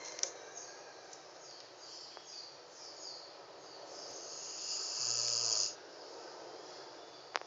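Belgian Malinois dog snoring in its sleep, with one long hissing snore that grows louder from about four seconds in and stops abruptly.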